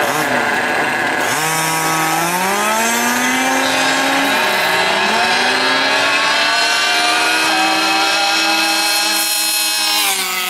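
Small two-stroke gas engine of a large-scale RC car revving at high speed. Its pitch climbs from about a second in, dips briefly near the middle, climbs and holds high, then drops off near the end.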